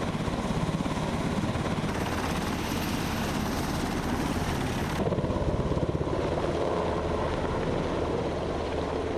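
UH-60 Black Hawk utility helicopter running, its rotor blades making a fast, even chop. The sound changes abruptly about five seconds in.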